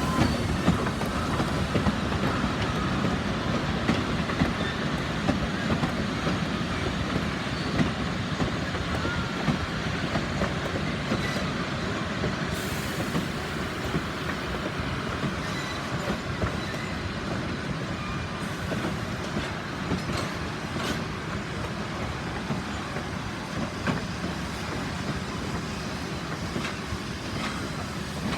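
Heritage steam-hauled train rolling slowly along the track, its wheels clattering and clanking over the rails. The sound eases slightly toward the end.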